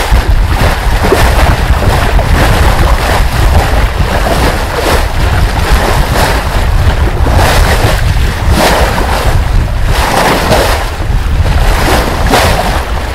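Wind buffeting the microphone with a heavy rumble, over waves rushing and splashing past a sailboat under way at sea, the wash swelling every second or two.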